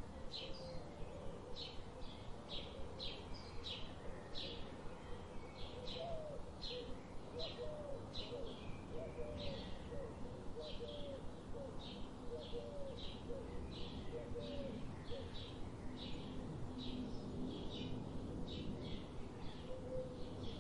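Birds calling: a short, high chirp repeated about twice a second. From about six seconds in to about fifteen seconds there is also a lower series of short notes rising and falling in pitch, over a steady background hiss.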